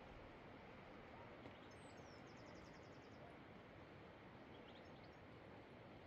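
Faint steady background hiss with a small bird calling once about two seconds in: a quick high downward note followed by a rapid trill of about nine notes.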